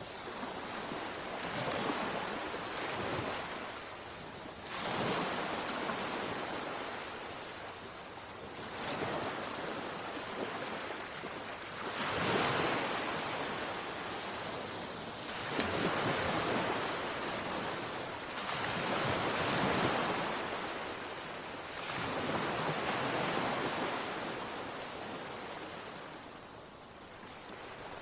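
Sea waves breaking and washing on a shore, the surf swelling and falling back every three to four seconds, with a little wind.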